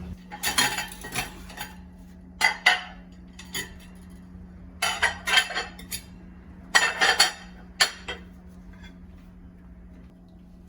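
Dishes and cutlery clinking and clattering as kitchenware is handled, in several short bursts over the first eight seconds, over a steady low hum.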